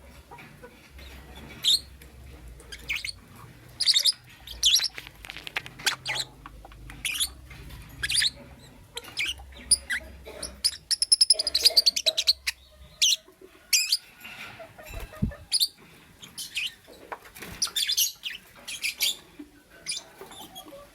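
Lovebird chirping: short, shrill calls at irregular intervals, with a quick run of chirps about halfway through.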